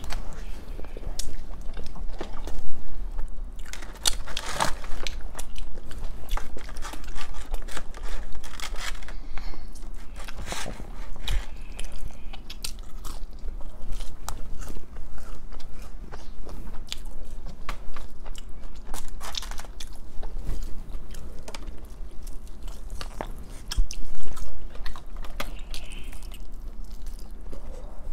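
Close-miked eating: chewing and biting into buffalo wings, with many short crunchy bites throughout.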